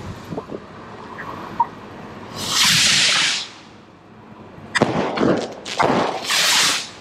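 Fireworks going off: a long whooshing hiss a little over two seconds in, like a rocket launching, then near the end a cluster of sharp cracks and another long whoosh.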